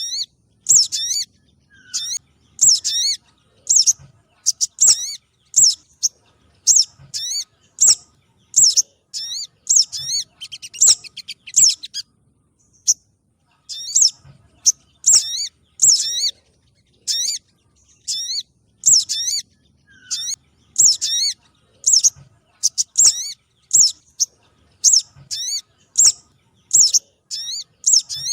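Recorded lure call of a spiderhunter (sogon trotol): short, high chirps repeated about once or twice a second, with a short pause about twelve seconds in.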